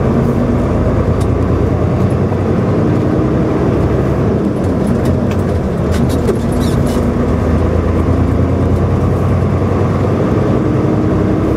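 Volvo semi-truck driving, heard from inside the cab: a steady engine drone under road noise, its pitch creeping up slowly near the end as the truck gathers speed.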